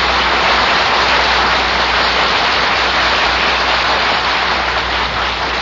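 Studio audience applauding: a dense, steady clapping.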